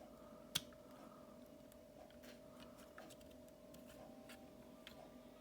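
Near silence with faint clicks of plastic action-figure parts being handled, one sharper click about half a second in.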